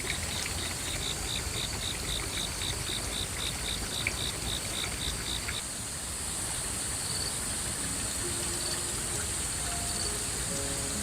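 Insects calling: a rhythmic cricket-like chirp at about five pulses a second that stops about halfway, over a steady high insect hum. A few faint musical notes come in near the end.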